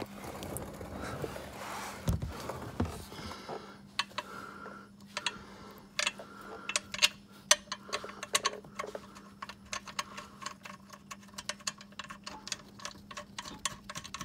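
Quick, light clicking of a 3/8-inch ratchet's pawl as the 14 mm oil drain plug is run back into the oil pan, the clicks growing denser in the second half, over a steady low hum.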